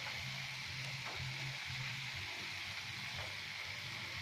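Chicken and green papaya pieces sizzling steadily in a pan, sautéed in oil and fish sauce, with a spatula stirring now and then.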